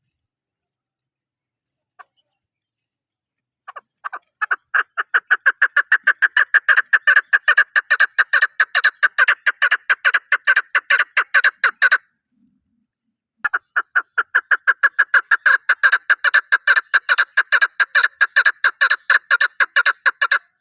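Chukar partridge calling: a fast run of sharp chuk notes, about five a second, that starts a few seconds in, breaks off for a second and a half near the middle, then resumes.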